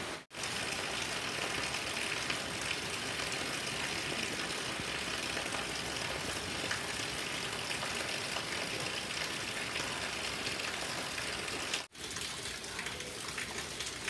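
Heavy rain falling steadily, with a stream of rainwater gushing off a roof edge and splashing down. The sound drops out briefly twice, just after the start and about twelve seconds in, and the rain carries on a little softer after the second break.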